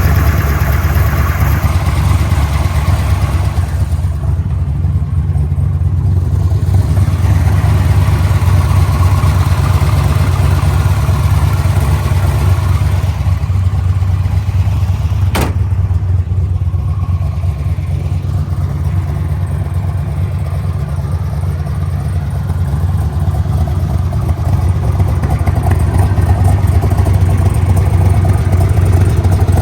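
1968 427 tri-power big-block V8 in a 1966 Corvette, running steadily at low revs through side-exit exhaust pipes. There is a single sharp click about halfway through.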